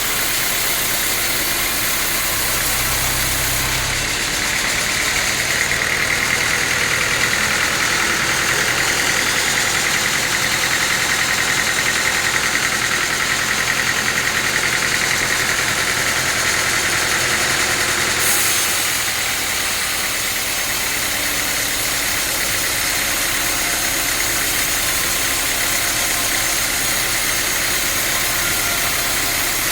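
Sawmill saw running steadily. From about four seconds in to about eighteen seconds in a louder, higher whine rises over the machine hum as the blade cuts through teak, then it falls back to the steady running sound.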